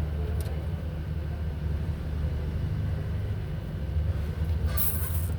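A vehicle engine running steadily at idle, an even low rumble, with a short hiss about five seconds in.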